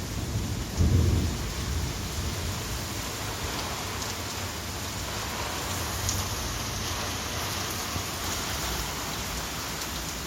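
Steady rain falling through a storm, with a brief low rumble of thunder about a second in.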